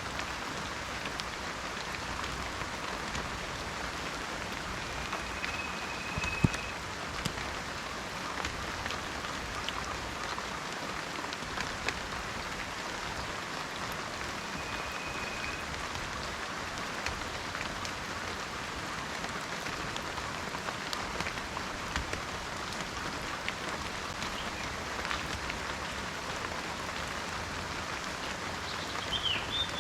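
Steady rain falling in a forest, a dense patter of drops with a sharper single drip about six seconds in. A few brief high whistled notes sound over it, the last near the end.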